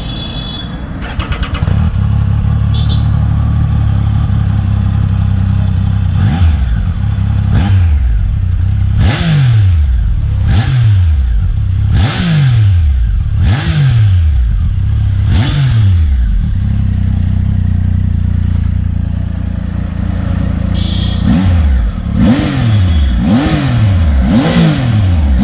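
Triumph Tiger 800 XCx's three-cylinder engine idling and being revved through its exhaust in a series of quick throttle blips, each rev rising and dropping straight back to idle. About seven blips come in the middle, a short steady idle follows, then four or five faster blips near the end.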